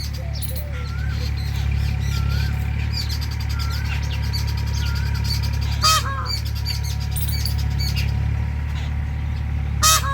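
Many birds chirping throughout, with a loud, brief call twice, about six seconds in and again near the end, over a steady low hum.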